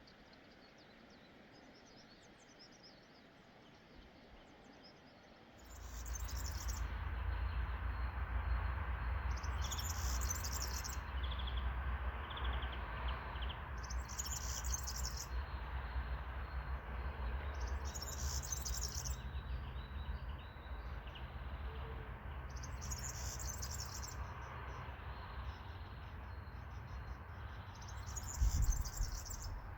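Birds singing, with a high buzzy call about a second long repeating roughly every four seconds. About six seconds in, a steady low rumble comes in and stays.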